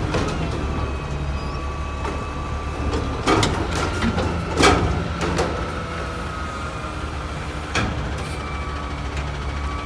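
1989 White/GMC Xpeditor garbage truck's engine running steadily, with a faint hydraulic whine and three sharp metallic clanks from the packing gear and dumpsters, about a third of the way in, near the middle and later on.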